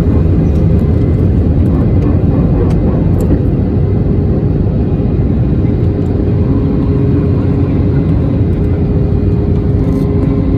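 Airliner jet engines running, a steady loud rumble with a faint steady hum above it.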